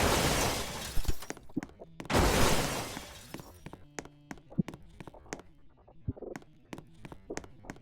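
Two loud crashes with a shattering quality, one at the start and one about two seconds in, each dying away over a second or so, followed by scattered clicks and knocks.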